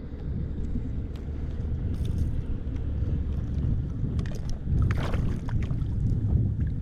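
Wind rumbling on the microphone over water around an inflatable kayak, with a few brief splashy sounds about two seconds in and again around five seconds.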